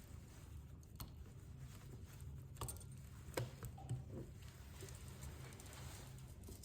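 Faint, scattered small clicks and taps of tools and parts being handled during a phone repair, over a steady low electrical hum.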